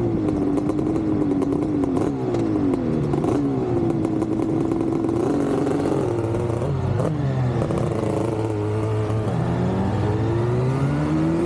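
Yamaha RD500R V4 two-stroke motorcycle engine under way, its note climbing and dropping again several times as the revs rise and fall.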